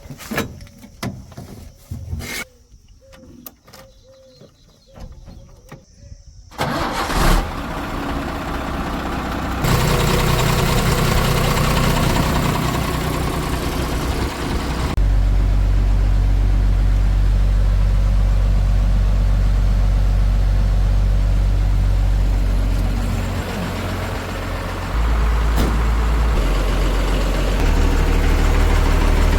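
A few quiet clicks and knocks, then about six and a half seconds in a heavy vehicle's diesel engine starts and keeps running. It steps up in speed twice, dips briefly near the end and rises again.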